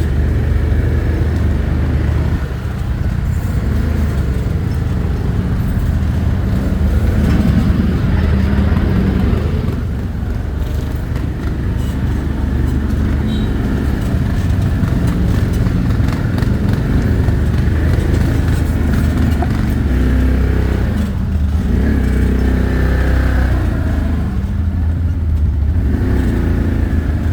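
ATV engine running under way, its note rising and falling with the throttle.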